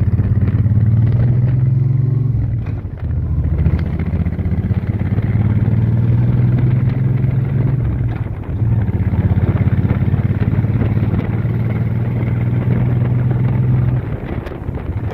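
Motorcycle engine running under way, dipping briefly in loudness twice, about three seconds in and again past eight seconds, then easing off near the end.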